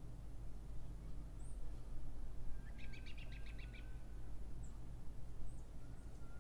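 A bird calling: a rapid chattering trill of about ten notes about three seconds in, with a few thin, high chirps scattered around it, over a steady low hum.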